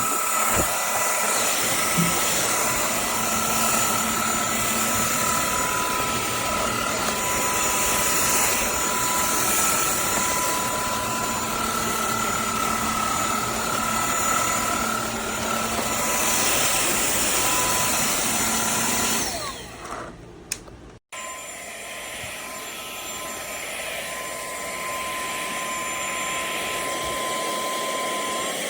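KCLASO cordless stick vacuum cleaner running, a steady rush of air with a high whine. It drops out abruptly about twenty seconds in, then runs again, its pitch rising near the end.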